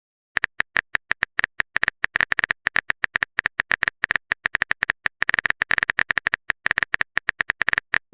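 Typing sound effect: a rapid, irregular run of short keyboard clicks, several a second, as a text message is typed out.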